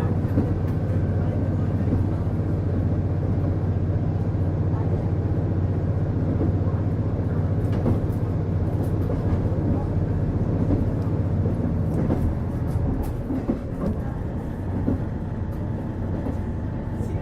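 Onboard running sound of a JR KiHa 48 diesel railcar: the diesel engine drones steadily under the floor, with a few light clicks of the wheels over rail joints. About thirteen seconds in, the engine note drops and the sound gets a little quieter.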